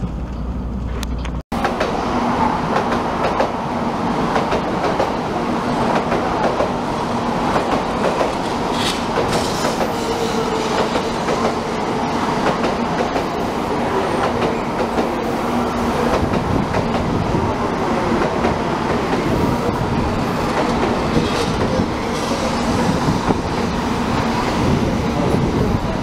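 A 700 Series Shinkansen bullet train running past on the tracks, a steady rush of wheel and rail noise with a faint low hum under it. It starts after a brief dropout about a second and a half in.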